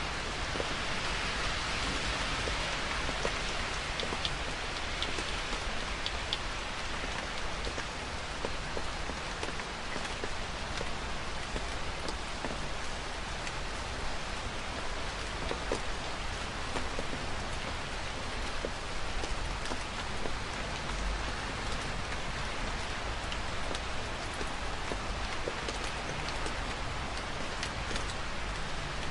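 Steady rain falling on hard surfaces: an even hiss with many small scattered drop ticks, unchanging throughout.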